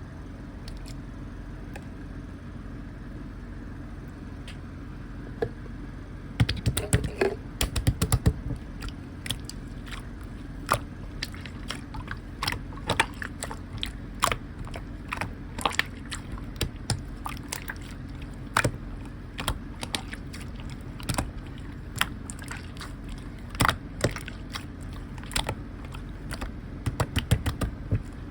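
Clear slime being squished and stretched by hand, giving many sharp clicks and pops from trapped air, which start about six seconds in and bunch up soonest after that and again near the end. A steady low background hum lies underneath.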